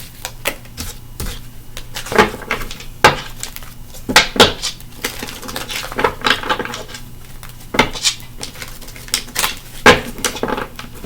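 Irregular sharp clicks and short clatters of small hard objects being handled on a tabletop, the loudest about two, three, four and ten seconds in.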